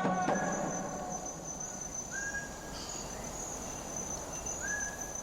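Rainforest ambience: a steady high-pitched insect trill, with a bird's short whistled note twice.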